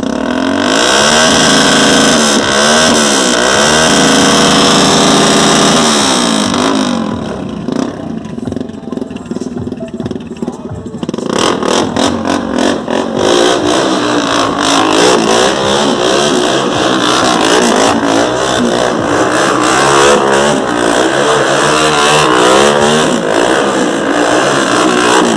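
Motorcycle engines revving over and over, the pitch climbing and dropping quickly. A short lull comes about seven seconds in, and from about eleven seconds on several bikes rev at once.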